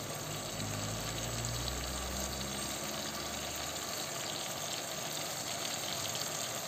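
Grated tomato and garlic frying in oil in a nonstick pan, a steady sizzle.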